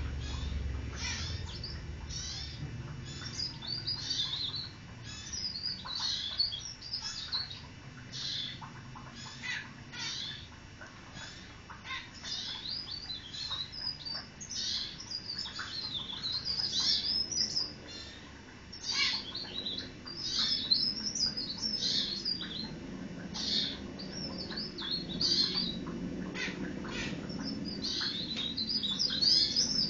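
A blereng (cikrak daun) songbird singing: quick, high-pitched twittering phrases, each a second or two long, repeated over and over with short gaps.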